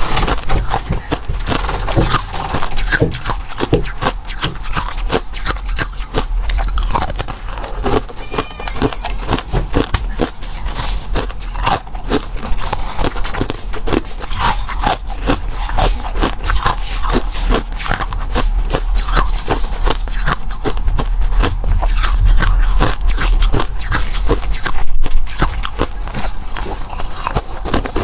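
Close-miked eating: a steady run of crunchy bites and chewing, many small cracks and clicks with no pause.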